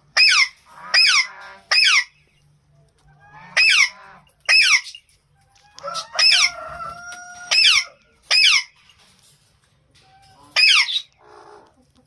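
Alexandrine parakeets calling: about nine loud, harsh screeches, each falling quickly in pitch, in ones and pairs with short gaps. Around the middle a lower, steady call is held for about a second and a half under them.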